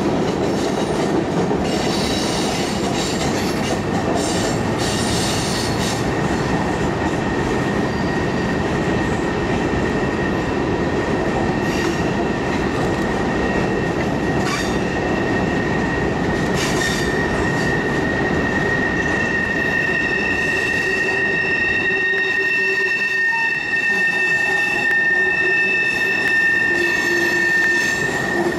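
Freight cars rolling past: a steady low rumble of wheels on rail with a sustained high-pitched wheel squeal. The squeal grows louder and gains higher overtones in the second half, while the rumble eases briefly near the end. The squeal is typical of wheel flanges grinding on a curve.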